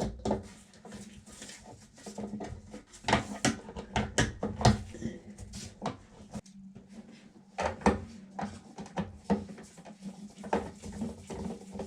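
Irregular knocks and clicks of hands working at the Vacuflush marine toilet, over a low steady hum that drops out for a moment midway.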